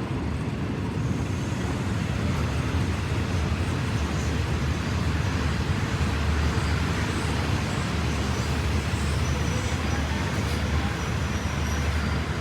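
A train running, a steady low rumble that grows slightly louder in the middle.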